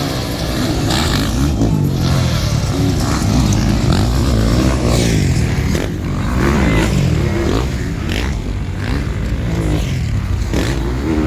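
Several motocross bikes racing, their engines revving up and dropping back again and again, with overlapping rising and falling pitches.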